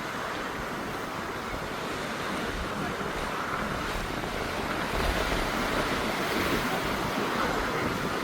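Steady rush of ocean surf and wind, with wind buffeting the microphone and growing louder from about five seconds in.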